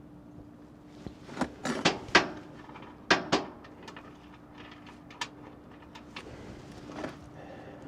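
A run of sharp knocks and clanks, several close together about a second and a half in, two more about three seconds in, then single ones near five and seven seconds, over a faint steady hum.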